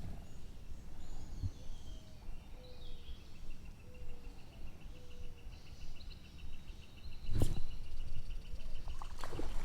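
Outdoor ambience by a trout stream: a bird's high, rapid, even trill starts about three seconds in and holds for several seconds over a few other bird notes and low steady noise. A single sharp click comes near the end.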